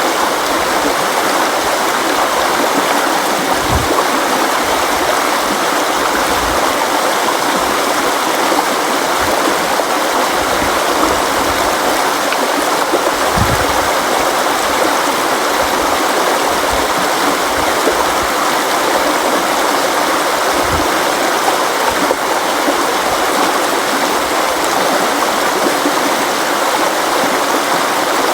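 River water flowing over rocks in a steady, dense rush, with a few brief low gurgles and thumps in the water.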